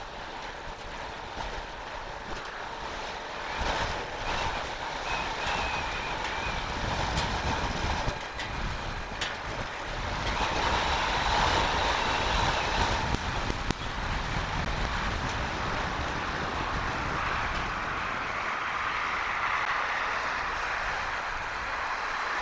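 Storm-force wind buffeting the webcam's outdoor microphone: a steady rushing roar with a heavy low rumble, swelling in gusts and loudest about ten to thirteen seconds in.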